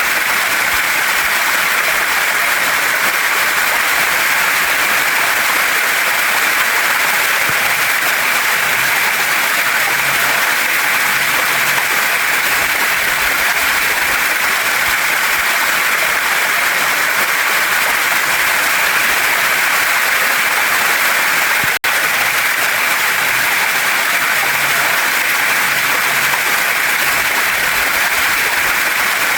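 Waterfall and mountain stream: a steady, even rush of falling and flowing water over rocks. It cuts out for an instant about two-thirds of the way through.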